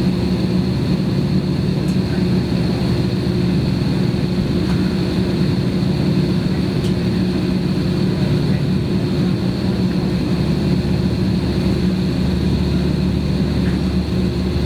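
Airbus airliner's jet engines at taxi power heard from inside the passenger cabin: a steady hum with a constant high-pitched whine over it.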